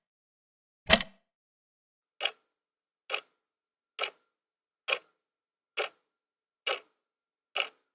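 Mechanical clock ticking: one heavy tick with a low thud about a second in, then a steady run of lighter, sharper ticks a little under one a second.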